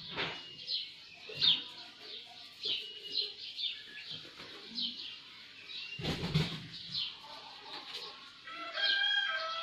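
Small birds chirping repeatedly in the background, short high chirps coming every half second or so. A brief rustle about six seconds in, and a longer pitched call near the end.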